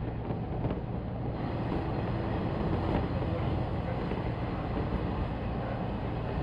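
Steady running noise of a 185-series electric train: an even rumble and hiss with no distinct knocks or tones.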